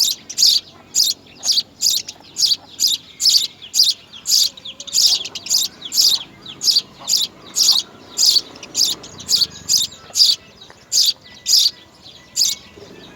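Baby birds in a nest chirping over and over, short high chirps at about two to three a second, keeping up a steady rhythm.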